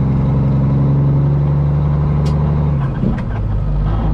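Peterbilt semi truck's diesel engine running under way. Its note drops to a lower pitch about three seconds in, then holds steady.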